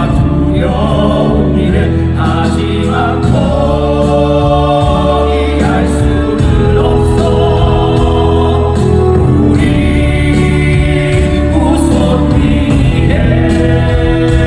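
Choral music with a choir singing sustained notes over a steady low accompaniment.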